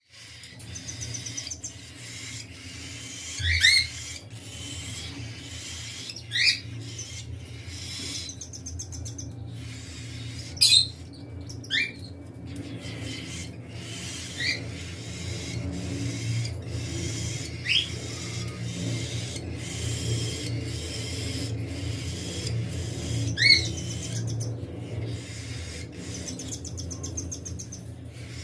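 Cockatiels calling: short, sharp rising whistles, about seven of them spread through the stretch, with a couple of bouts of fast, high chattering in between. A steady low hum sits underneath.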